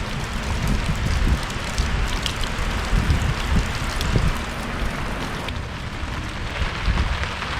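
Steady rain shower: an even hiss of falling rain with scattered sharp drip ticks, over irregular low rumbling bumps.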